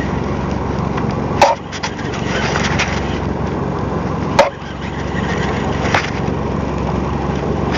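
Steady rumble and rush of a small fishing boat running at sea, broken by three sharp knocks, about a second and a half in, about four and a half seconds in, and near six seconds in.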